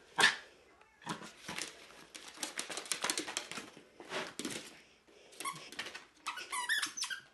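A dog's noises: a sharp yelp-like burst right at the start, a few seconds of scuffling and snuffling noise, then high, wavering whining squeaks near the end.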